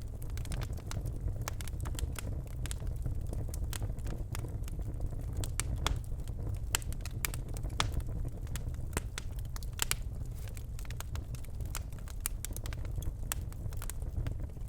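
Birch logs burning in a fireplace: irregular sharp crackles and pops, many each second, over a steady low rumble of the flames.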